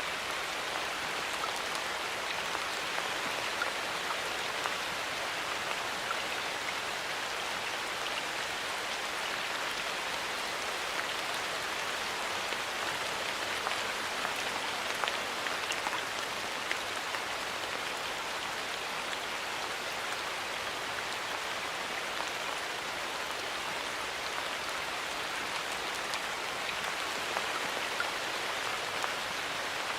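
Steady rain falling in a forest, with individual drops pattering on leaves and surfaces.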